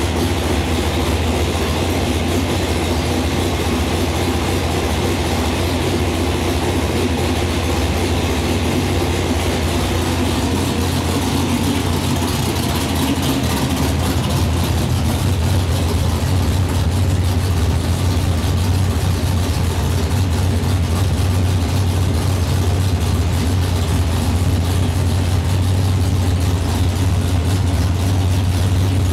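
Ford 351 Windsor V8 built out to a 418 cubic inch stroker, running at a steady idle.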